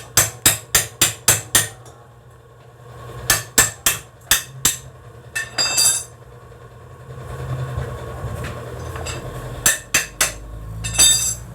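A hammer striking metal in quick runs of ringing blows, about four a second, with pauses between the runs and a few single blows near the end.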